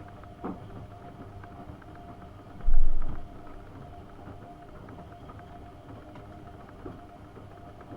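AEG Öko-Lavamat 72520 washing machine running, a steady motor hum with a constant whine and scattered light clicks, and one loud deep thump about three seconds in.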